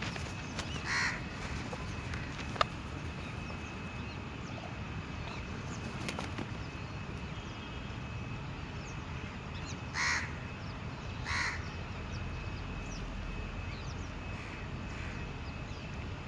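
Crows cawing: one caw about a second in and two more close together around ten and eleven seconds in.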